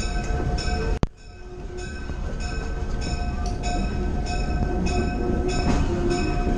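Passenger train car rolling along the track: a steady rumble and rattle with a faint steady whine over it. About a second in there is a sharp click, the sound nearly drops out, then fades back up over the next couple of seconds.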